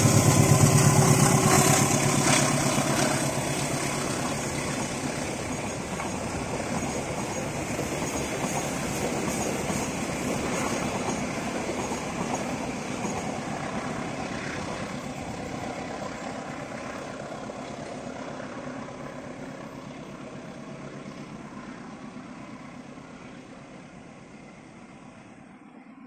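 Passenger train passing behind a GE CC 201 diesel-electric locomotive: the engine's steady drone is heard in the first couple of seconds. The running noise of the coaches on the track follows, fading steadily as the train moves away.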